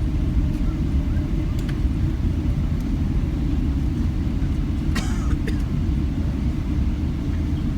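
Steady low rumble of airliner cabin noise during landing, with a brief click about five seconds in.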